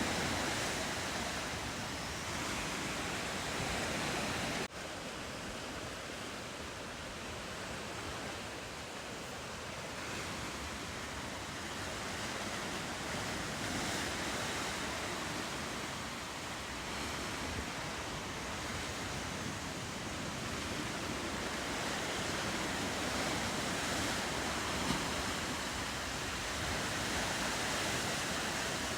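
Steady ocean surf washing against the coast, with wind. The sound drops abruptly in level about five seconds in.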